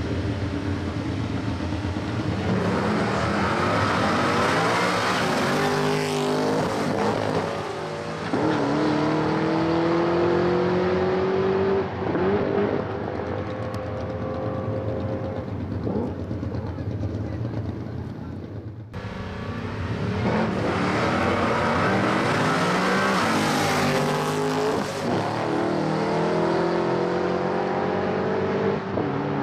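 Drag-racing street cars, among them a Holden Commodore, launching off the line and accelerating hard down the strip. The engines rise in pitch and drop back at each gear change, then fade as the cars pull away. About 19 seconds in the sound cuts abruptly to another launch that rises through the gears the same way.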